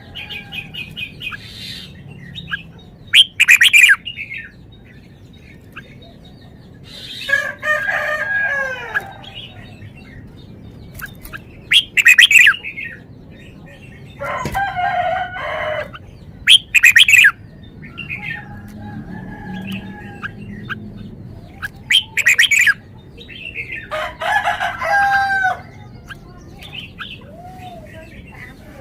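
Red-whiskered bulbul singing: short, loud, sharp calls alternating with warbled phrases of gliding whistles, a new phrase every few seconds.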